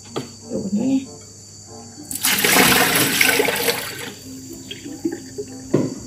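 Kitchen tap water running into a plastic basin held over a steel sink as it is rinsed, a loud splashing rush that starts about two seconds in and stops about two seconds later.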